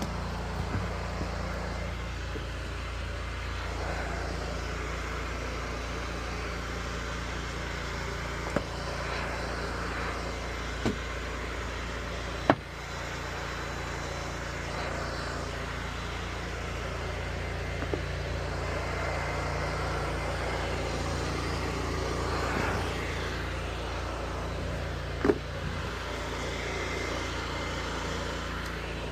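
Pressure washer engine running steadily while water sprays from the wand onto house siding, with a few short sharp knocks now and then.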